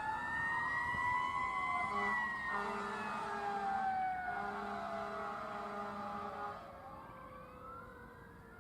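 Emergency vehicle sirens wailing, slowly rising and falling, with a string of short horn blasts in the middle; the sound fades away after about six and a half seconds.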